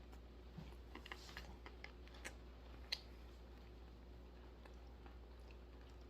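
Faint crunching of dry roasted almonds being chewed: a run of small crisp cracks in the first three seconds, then near quiet.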